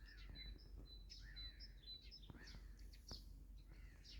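Faint birdsong outdoors: a short high chirp repeated about twice a second, with a few lower, quicker calls in between, over a steady low background rumble. A couple of soft clicks come a little past the middle.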